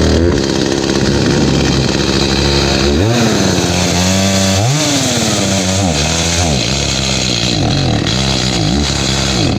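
Echo CS310 two-stroke chainsaw engine running, its speed rising and falling several times. It then dies abruptly near the end, having choked itself out.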